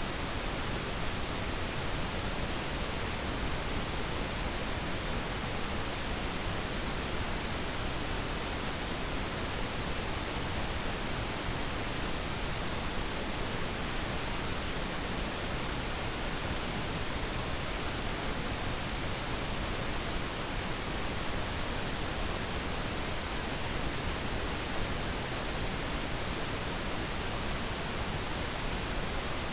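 Steady pink noise: an even, unchanging hiss across the whole range, with no other sounds.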